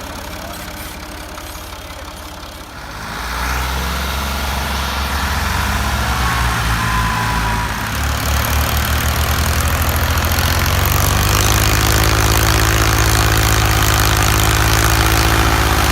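Ford farm tractor's diesel engine running; it gets louder about three seconds in and then runs steadily.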